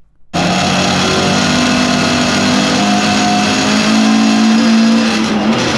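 Lotus Cortina's four-cylinder twin-cam racing engine, heard loud from inside the cabin, pulling hard at high revs with its pitch creeping slowly upward. The sound starts abruptly just after the start and cuts off suddenly at the end.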